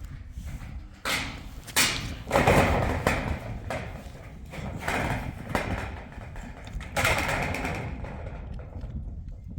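Several thuds and short bursts of scraping, rustling noise, the longest about two and a half seconds in and another near seven seconds in.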